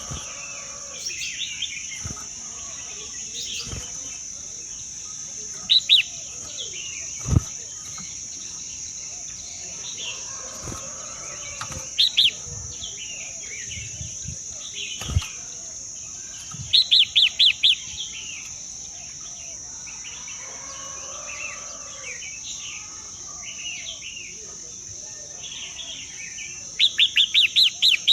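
Birds chirping, with several loud bursts of four to six quick, high, falling calls, over a steady high-pitched drone. Two sharp knocks sound in the middle.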